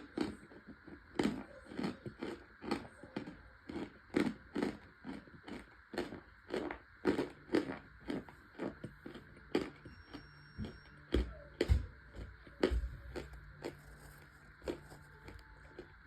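Close-miked chewing of crunchy baked cornstarch chunks: sharp dry crunches about twice a second, with a few deeper thumps later on.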